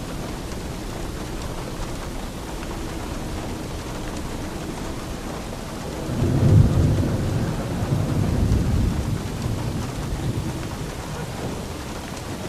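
Steady rain, with a roll of thunder about halfway through that comes in suddenly, rumbles low for a few seconds and fades away.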